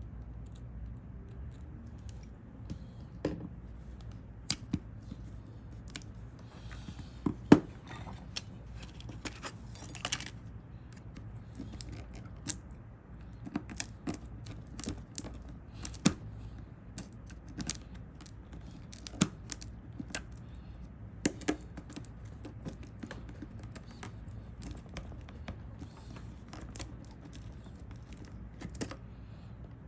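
Small hand tools clicking and tapping on a smartphone's metal and plastic internals during disassembly: irregular sharp clicks with a few brief scrapes, the loudest click about seven seconds in, over a steady low hum.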